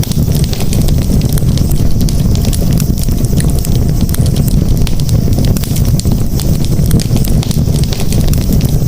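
Wood campfire crackling: many small sharp pops and snaps, irregular and frequent, over a steady low rumble of the burning fire.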